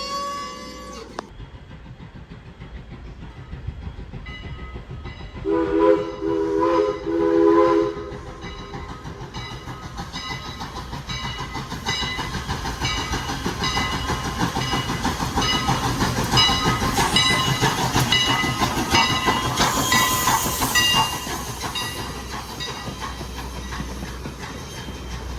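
A train sounds a multi-note horn or whistle chord in three short blasts, then rolls past with a steady rhythmic clicking of wheels over the rail joints that grows louder and then fades a little near the end.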